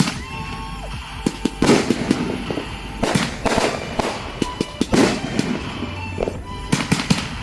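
Aerial fireworks bursting: many sharp bangs, some in quick succession, with music playing underneath.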